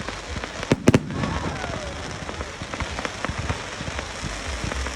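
Fireworks going off: two sharp bangs about a second in, then a dense crackling, like rain, with many small pops.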